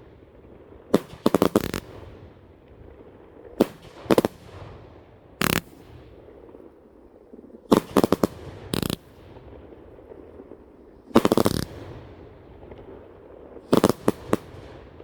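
Consumer fireworks going off: groups of sharp bangs every one to three seconds, some single reports and some quick runs of several, with the longest, loudest burst about eleven seconds in.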